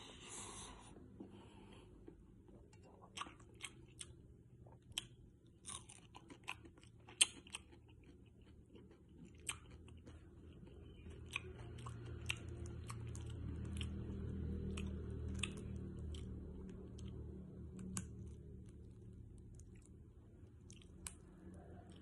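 Close-up chewing and crunching of food from a meal of squid and salted fish, with sharp, irregular crunches and mouth clicks. A low rumble swells in the middle and fades again.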